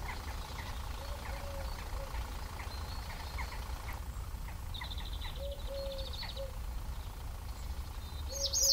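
Outdoor ambience: a steady low rumble with short bird chirps scattered throughout and a fast high trill about five seconds in.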